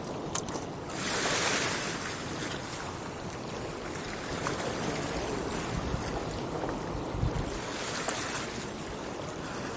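Water splashing and lapping around a canoe, with wind rumbling on the microphone. A louder rush of water comes about a second in, and a weaker one near the end.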